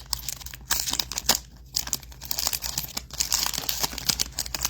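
Foil trading-card pack wrapper crinkling and tearing open, with irregular crackles.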